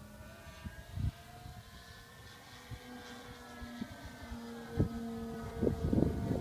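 Electric motor and propeller of a radio-controlled Edge 540 model aerobatic plane whining in flight, the pitch shifting up and down as it flies. Wind buffets the microphone, more strongly near the end.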